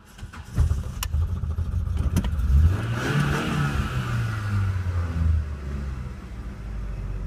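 Ford Mondeo 1.8 engine catching on a cold start just over half a second in. The revs rise around two to three seconds in, then settle to a steady fast idle.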